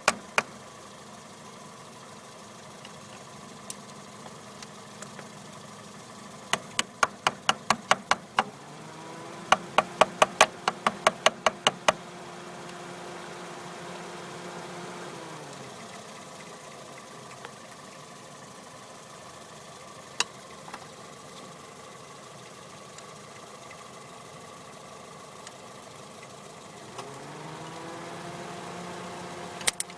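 Jeep Comanche failing to start: two runs of rapid, even clicking, about four clicks a second, over a steady hum. A whine rises, holds for several seconds and falls away, then rises again near the end.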